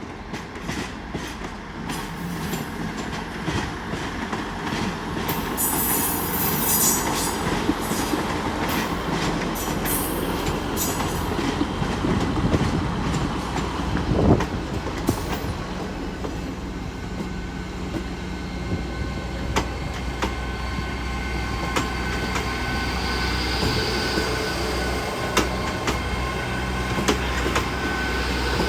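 Class 158 diesel multiple unit moving through the station: a steady low diesel engine hum under repeated clicks of wheels over rail joints, with a brief high-pitched wheel squeal or hiss a few seconds in and a thin squeal again near the end.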